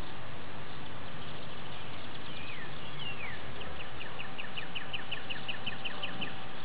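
A songbird singing over a steady background hiss: two descending whistled slurs, then a rapid run of repeated short notes, about five a second, lasting a few seconds.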